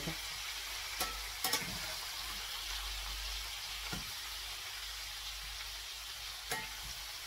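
Chicken pieces sizzling steadily in hot oil in a stainless steel pan while being stirred with a metal slotted spatula, frying the just-added spices to cook out their rawness. A few sharp clicks of the spatula knock against the pan, about a second in, near the middle and near the end.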